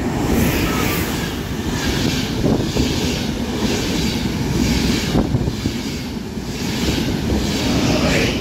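ÖBB Nightjet passenger train passing at speed, hauled by Class 1216 Taurus electric locomotives: a loud, steady rush of wheels on rail with a regular beat of about two a second as the coaches go by.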